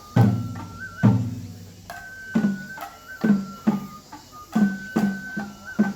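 Japanese festival hayashi music for a lion dance: a bamboo flute holds high notes with small ornamental turns over irregular, sharp taiko drum strikes.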